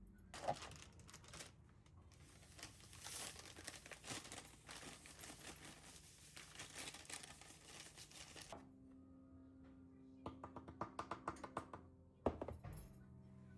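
Crinkling, tearing rustle of something being handled for about eight seconds. Then soft background music, with a quick run of clicks and a single sharp knock near the end.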